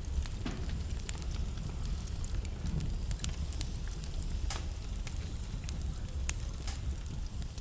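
Wood fire burning in a fireplace: a steady low rumble and hiss of the flames with irregular sharp crackles and pops from the burning logs, two of them louder than the rest near the middle.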